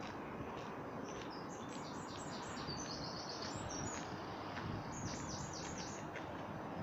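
A songbird singing two phrases of quick, repeated high notes. The first lasts about two seconds and dips lower partway through; the second is shorter, about five seconds in. A steady background hiss runs underneath.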